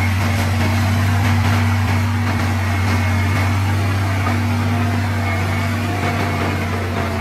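Heavy-equipment diesel engine running steadily at a constant speed, a loud unchanging low drone.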